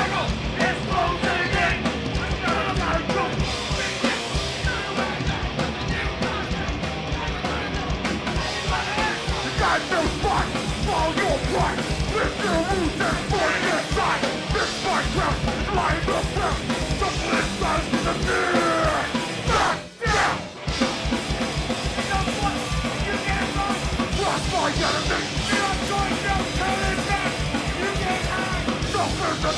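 Live punk band playing loud and fast, with drums, guitars and yelled vocals. The band cuts out for a split second about two-thirds of the way through and crashes straight back in.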